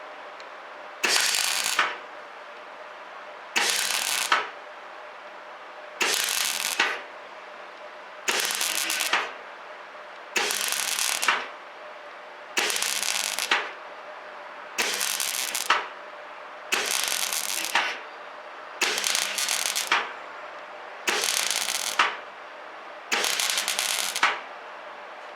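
Semi-automatic (MIG) welder laying short stitch welds on a steel patch plate: eleven bursts of crackling arc, each about a second long, one every two seconds or so, with a steady hum between them.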